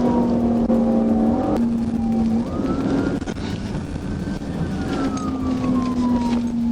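Police patrol car's siren wailing in a slow rise and fall, over the car's engine and road noise at speed.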